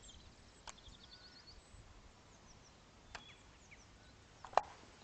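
Quiet outdoor background with small birds chirping faintly, and a few sharp clicks or knocks, the loudest about four and a half seconds in.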